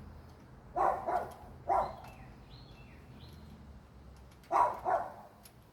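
A dog barking: two barks about a second in, a single bark just before the 2-second mark, and two more near the end.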